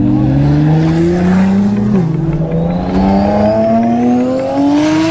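Acura NSX sports car's V6 engine accelerating hard. The pitch climbs, drops once about two seconds in as it shifts up a gear, then climbs again.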